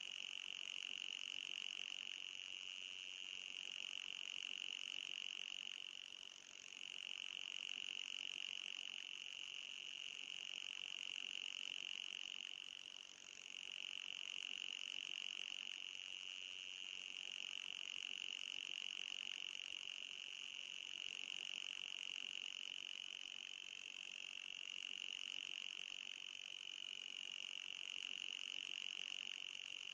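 Steady high-pitched electronic whine of a mosquito-repellent sound track, with a fainter, higher whine above it. It dips briefly twice, about six and thirteen seconds in, and wavers slightly near the end.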